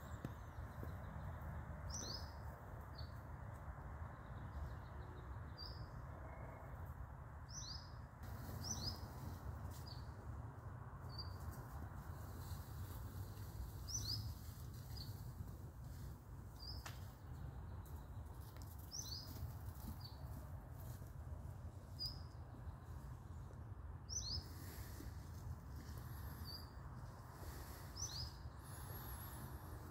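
A bird calling over and over with short, high chirps, often two at a time, every second or two, over a steady low rumble.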